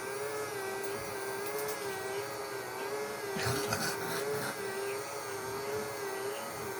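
A small robot vacuum running, its motor giving a steady whine that wavers gently in pitch. A brief scuffing clatter comes about halfway through.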